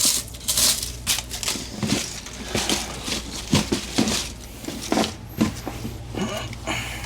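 Irregular rustling, crinkling and light knocks of things being handled, over a low steady hum.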